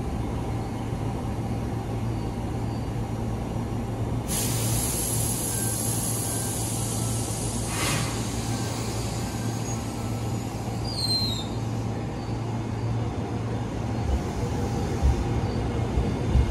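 Tobu 200 series electric train standing at the platform with a steady low hum from its equipment; about four seconds in, compressed air hisses for nearly four seconds and cuts off sharply. Near the end the train starts to move off, with louder uneven knocks and rumble building.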